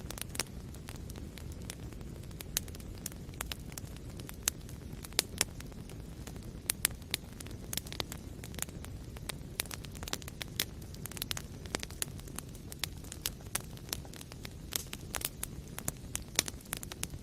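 Wood fire burning in a fireplace: a steady low rumble of flames with frequent irregular crackles and pops from the burning wood, a few of them sharp and loud.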